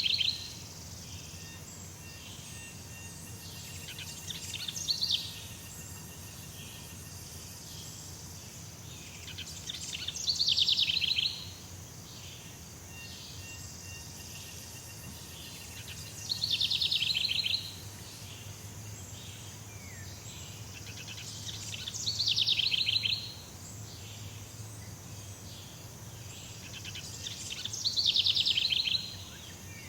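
Jungle ambience: a rapid, high trilling call of about a second, repeated about every six seconds, each call swelling and then stopping sharply, over faint steady high-pitched insect tones and a low background hum.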